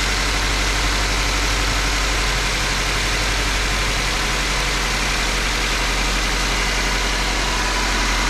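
Subaru Impreza's FB16 1.6-litre flat-four engine idling steadily, filmed by an owner who suspects something is wrong with it.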